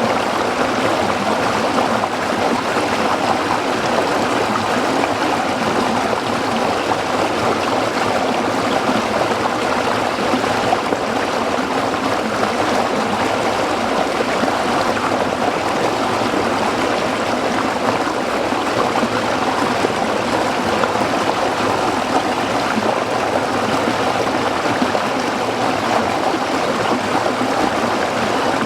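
Shallow stream water flowing and splashing over rocks, a steady babbling rush.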